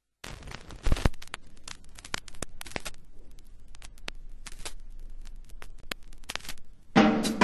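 Irregular crackling and clicking, then music with a drum kit starts suddenly near the end.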